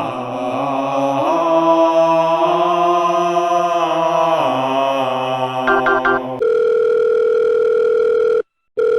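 A sustained music chord shifting slowly in pitch. Near the end of it come three quick keypad-style beeps, then a steady telephone calling tone that breaks off briefly near the end.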